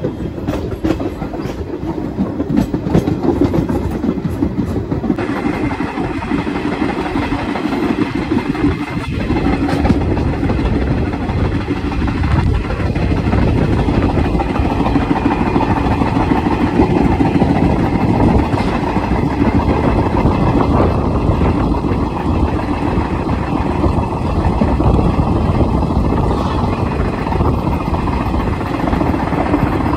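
Train running, a loud, steady rumbling noise.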